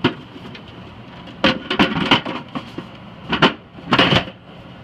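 Plastic knocks and scrapes as parts are pushed back into a GE 70-pint dehumidifier's housing: a click at the start, a cluster of clunks about a second and a half in, and two more clunks near the end.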